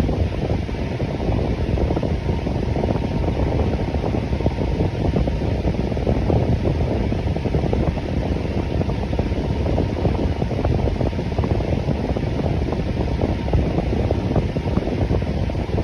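Electric fan running steadily: a constant low whooshing hum of moving air with a faint steady tone, no changes.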